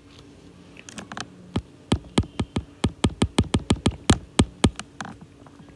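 A quick, irregular run of about twenty sharp clicks, beginning about a second and a half in and lasting about three seconds.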